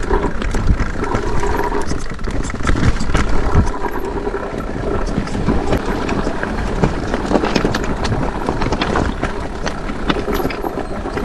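Mondraker electric mountain bike being ridden over a rough trail: a steady rumble of tyres and wind with frequent rattles and knocks from the bike.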